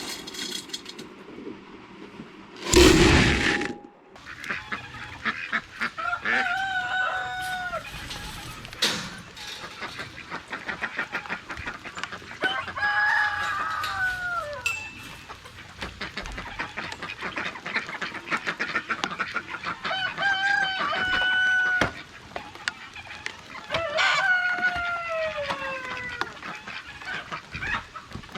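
Roosters crowing four times, each crow about two seconds long and dropping in pitch at the end. A loud burst of noise about three seconds in is the loudest thing heard.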